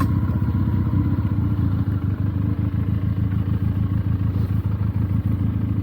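Benelli TNT 300's parallel-twin engine running at low, steady revs.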